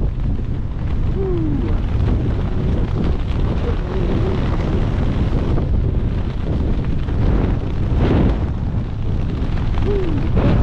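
Steady wind rushing and buffeting across a skydiver's helmet-mounted camera microphone, loud and rumbling.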